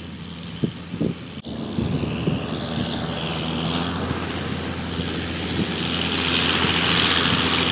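John Deere 6530 tractor's engine running steadily while pulling a round baler in wheat straw, with two short knocks about a second in and the sound growing louder near the end.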